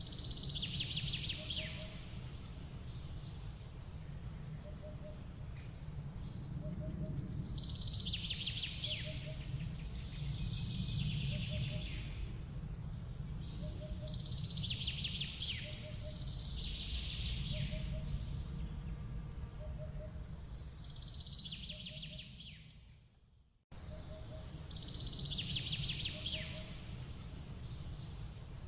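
A songbird singing a short falling trilled phrase every few seconds, with a faint double chirp repeating about every second and a half over a steady low outdoor rumble. The sound fades out, then cuts back in about three-quarters of the way through.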